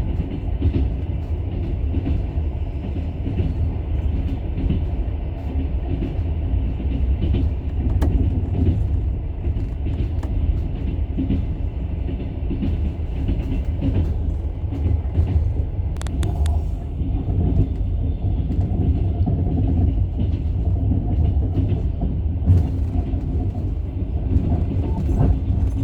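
Steady low rumble of a moving vehicle heard from inside the cabin, even throughout with no engine revving.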